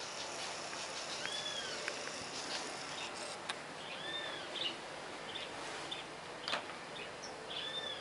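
Wild birds calling around a garden feeder: a clear arched whistled note repeated about every three seconds, with short chips between, over a steady outdoor hiss. A single sharp click comes about six and a half seconds in.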